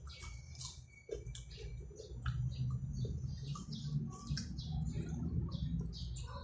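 Someone chewing crunchy corn chips: a run of irregular crisp crunches. A low steady hum comes in under them from about two seconds in.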